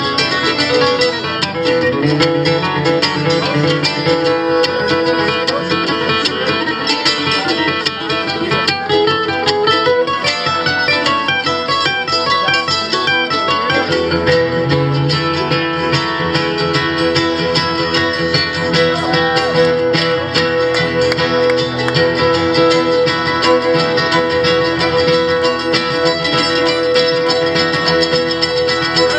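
An acoustic string band plays an instrumental passage, led by fast picked acoustic guitar notes over a held tone.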